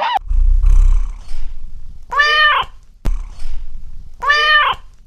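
A cat meowing twice, each meow about half a second long, rising then falling in pitch. A low rumble comes near the start.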